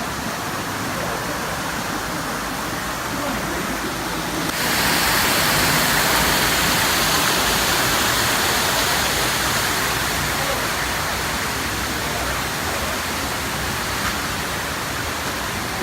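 Mountain waterfall rushing in a steady roar of falling water, becoming louder and brighter about four and a half seconds in, then easing slightly.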